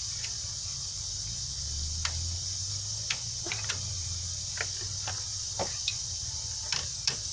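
Scattered light metallic clicks and knocks of brake parts being handled and seated while fitting a brake caliper and its clips, over a steady high hiss.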